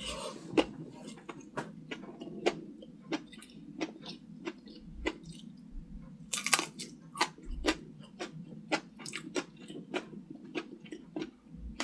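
A person chewing food close to the microphone: a steady run of wet mouth clicks and smacks, about two or three a second, with a denser crunchy patch about six and a half seconds in.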